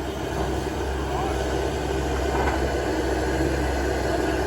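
Steady low drone of heavy diesel construction machinery, an excavator at work loading dump trucks, with a couple of faint short rising whines.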